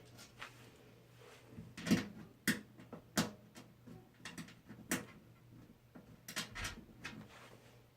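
Irregular clicks and knocks of small metal parts being handled and fitted inside a computer case while motherboard standoffs are put in, with the louder knocks about 2, 2.5, 3, 5 and 6.5 seconds in.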